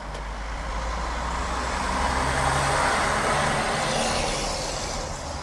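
Road and traffic noise from a vehicle driving, swelling to its loudest about halfway through and then easing off.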